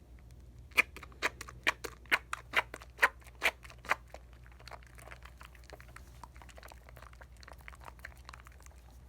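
Wet soap lather from a bar of Dial coconut soap being squeezed and worked by hand: about nine sharp squelching clicks, roughly two a second, then softer, quicker crackling of suds for several seconds.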